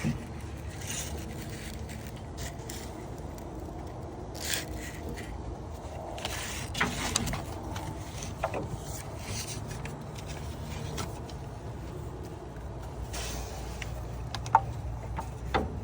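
Scattered scrapes and clicks of a spark plug wire being routed and fitted on a spark plug, with one sharp click about a second and a half before the end, over a steady low hum.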